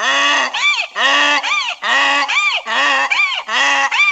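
Farm waterfowl calling over one another in quick succession, loud nasal calls that rise and fall in pitch, two or three a second.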